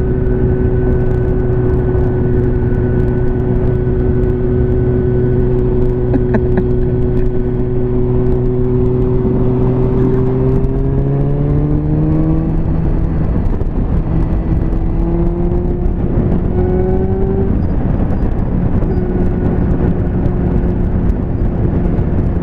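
Liter-bike motorcycle engine running at a steady cruising pitch under heavy wind rush, then accelerating about halfway through, its pitch climbing for several seconds before it settles at a higher steady pitch.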